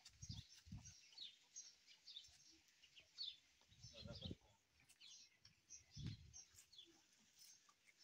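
Faint bird chirping: many short high calls scattered throughout, with a few low thumps.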